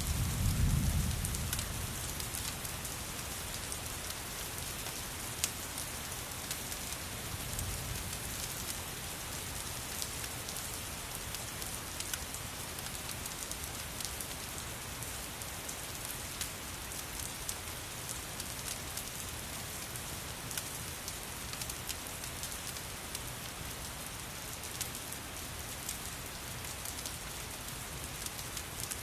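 Steady rain, an even hiss with scattered sharp ticks. A low rumble swells and fades in the first couple of seconds, and a weaker one comes around eight seconds in.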